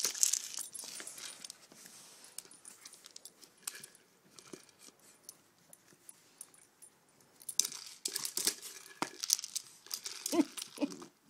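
Treat-dispensing egg toy being pushed around by a dog: scattered knocks and rattles as it rolls and the treats shift inside, busiest at the start and again late on.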